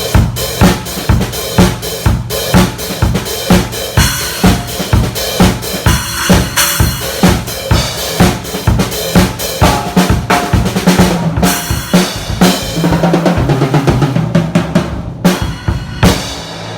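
Mapex Tornado drum kit played in a steady beat, with bass drum, snare and cymbals about two or three hits a second. It turns into a busier fill near the end and stops abruptly.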